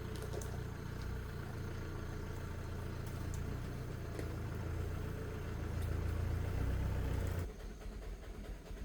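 An engine running steadily with a low rumble, stopping abruptly about seven and a half seconds in.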